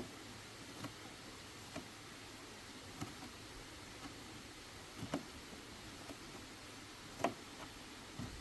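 Scattered light knocks and clicks at irregular intervals, about eight in all, over a steady low hiss; the sharpest knock comes near the end.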